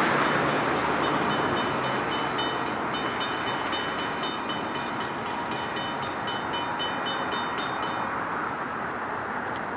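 NJ Transit Arrow III electric multiple-unit train running away from a grade crossing, its rolling noise fading steadily. The crossing bell rings rapidly over it, about four strokes a second, and stops about eight seconds in.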